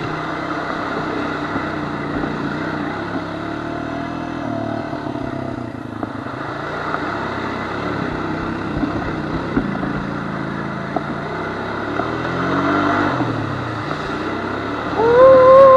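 Honda FourTrax quad's engine running and revving up and down as it is worked through deep mud ruts, with a few knocks from the machine. Near the end, a loud, steady high tone cuts in.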